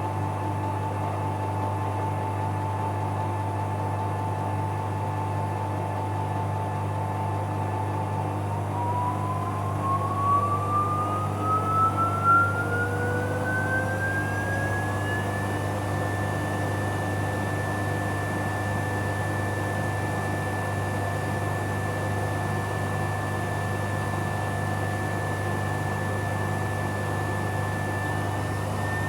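Bauknecht Super Eco 7615 washing machine on its spin cycle: the inverter motor's steady high whine rises in pitch about a third of the way in as the drum speeds up, then holds at the higher pitch over a low hum.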